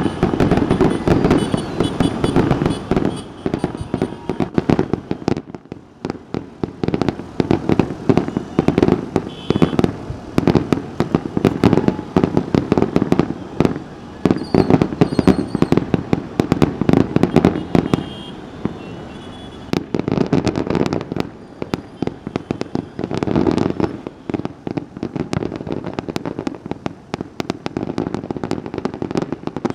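Fireworks display going off continuously: a dense barrage of bangs and crackling pops, with brief lulls around six and eighteen seconds in.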